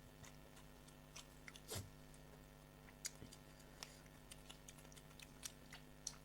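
Faint eating sounds: scattered small clicks and smacks of chewing and of fingers working rice on a plate, the loudest about two and three seconds in, over a low steady hum.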